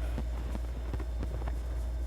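Fireworks crackling with scattered irregular pops over a steady low rumble.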